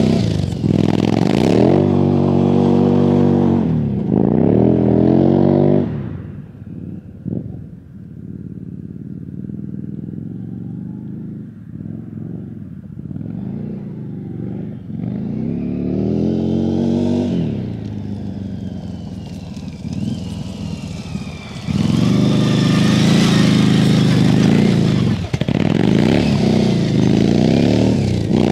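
The 1000cc V-twin of a 1984 Yamaha Virago 1000 trike, breathing through an aftermarket Two Brothers muffler, revving up again and again as it is ridden hard. The engine note fades to a distant drone for several seconds as the trike rides away, then comes back loud about two-thirds of the way in.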